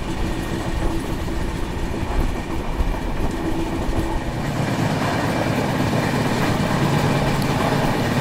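Indian Railways express train running along the track, heard from aboard: a steady rumble of wheels on rail with some clickety-clack. It grows a little fuller about four and a half seconds in.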